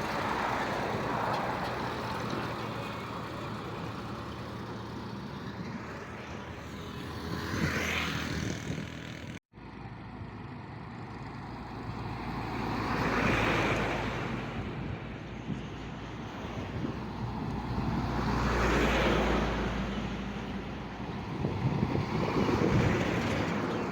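Road traffic: engine hum and tyre noise that swells and fades as vehicles pass one after another, about three times. The sound cuts out briefly about nine and a half seconds in.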